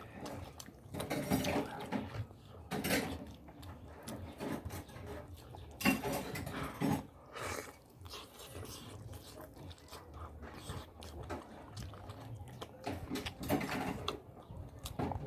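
A person eating close to the microphone: chewing and biting meat, with wet mouth sounds and clicks coming in irregular bursts.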